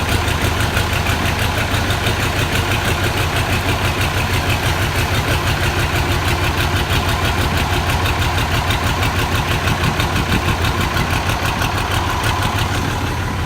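Diesel tractor engine idling steadily with an even, rapid firing pulse, running cold shortly after a hard cold start.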